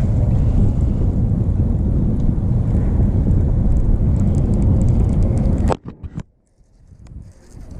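Wind rumbling on the microphone while the boat runs across the water. It cuts off abruptly about six seconds in, leaving a second or two of near quiet with a few small clicks.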